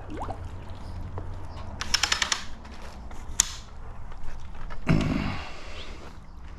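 Hard handling clatter: a quick rattle of several sharp clicks about two seconds in, then a single sharp click a little later, over a low steady hum.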